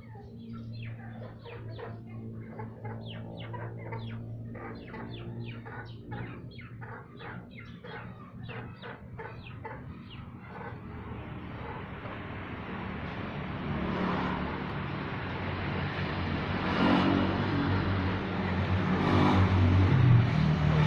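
Birds chirping in quick, dense calls over a low engine hum. From about halfway a vehicle approaches and grows steadily louder, drowning out the birds.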